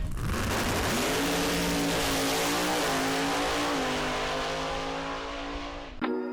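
Drift car engine revving up in the first second and then held at high revs, over a loud broad hiss. It cuts off abruptly about six seconds in.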